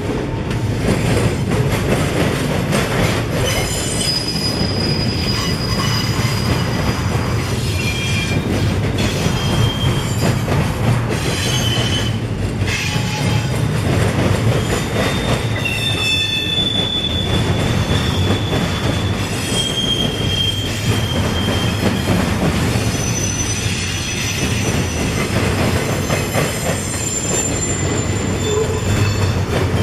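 Freight train cars rolling past, a steady low rumble of wheels on rail with short high-pitched wheel squeals that come and go.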